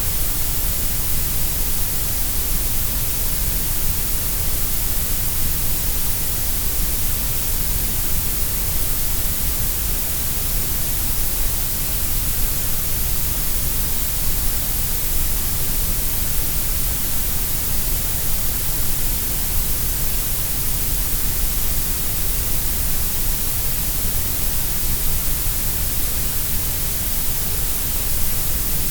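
Grey noise: a steady, even hiss spread across all pitches, louder in the lows and highs than in the middle, with no change.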